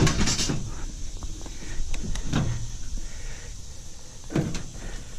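Heavy stainless-steel bread steamer cabinet being shifted and set in position: a loud metal clunk at the start, then further knocks about two and a half and four and a half seconds in.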